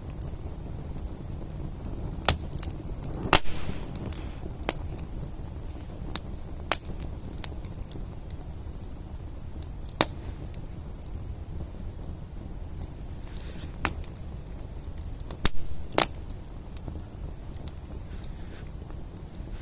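Campfire burning, its wood crackling with irregular sharp pops over a low steady rumble.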